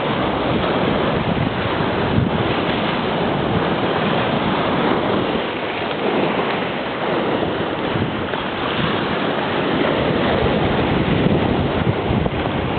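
Mediterranean Sea waves and surf, a steady rushing noise, with wind rumbling on the microphone.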